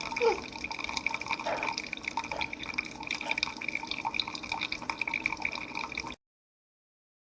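Keurig K-Iced single-serve coffee maker dispensing, coffee streaming and dripping into a cup. The sound cuts off suddenly about six seconds in.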